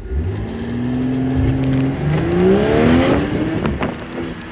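A car engine at full throttle under hard acceleration: it comes on suddenly, holds a steady pitch for about two seconds, then its pitch climbs quickly as it revs up, before easing off near the end.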